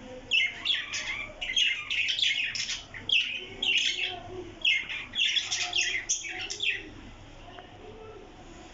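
Pet parrot chirping: a quick run of short, loud calls, many sliding downward in pitch, which stops about seven seconds in.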